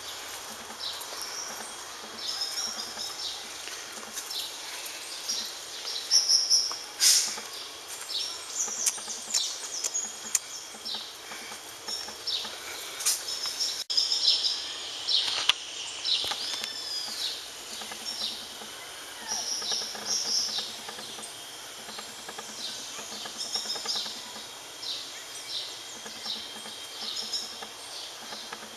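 Birds chirping: many short, high calls come one after another, some sliding in pitch, over steady outdoor background noise.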